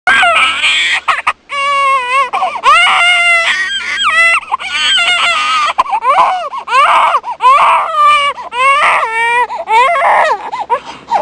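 A baby crying: a run of wailing cries, each about a second long, one after another.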